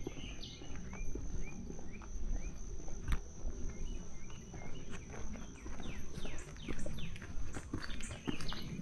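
A steady high-pitched insect drone, with many short chirps and quick falling calls over it, a cluster of them about five to seven seconds in; under it, low scuffing footsteps.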